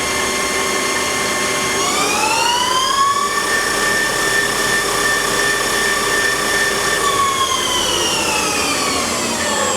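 South Western Industries TRL1840SX CNC lathe spindle running in high range. Its whine rises in pitch about two seconds in as it speeds up to its 2500 RPM maximum, holds steady, then falls as the spindle slows down near the end.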